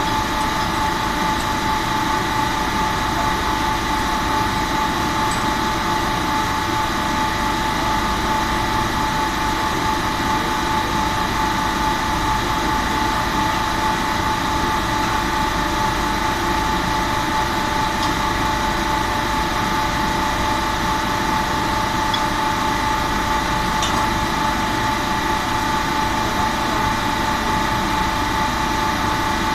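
Chiller plant machinery running steadily: a constant mechanical hum with a steady high-pitched whine over it.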